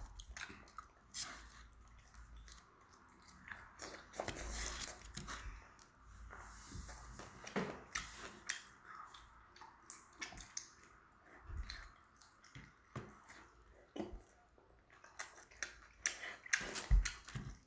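A young child biting and chewing pizza, with many short, irregular mouth clicks and smacks.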